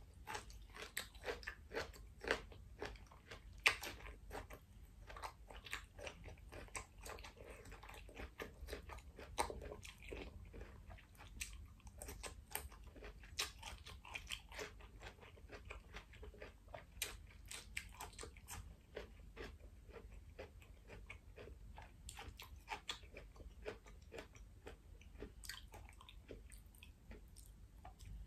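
Close-miked chewing of a bite of stir-fried asparagus: crisp crunching and wet mouth clicks, dense for the first half and thinning out later.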